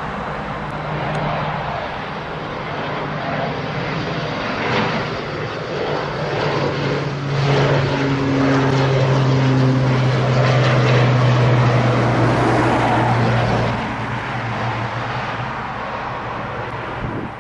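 Turboprop airliner's engines and propellers running as it passes, with a low steady propeller tone under engine noise. It grows louder to a peak about halfway through, then fades, and the tone drops a little in pitch as the aircraft goes by.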